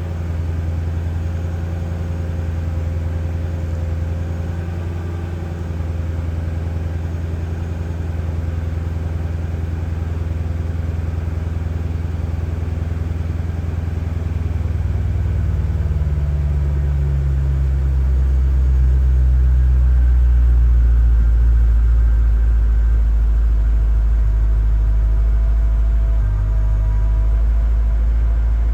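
2003 Mercedes-Benz E55 AMG's supercharged 5.4-litre V8 idling steadily after a cold start. About halfway through, the idle note drops lower and grows a little louder.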